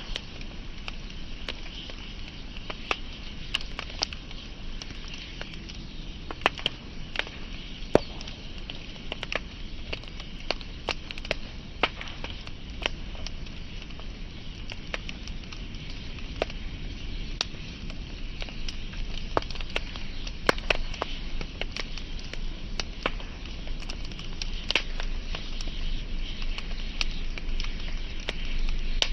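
Burning wood fire crackling, with irregular sharp pops and snaps over a steady low hiss of the flames.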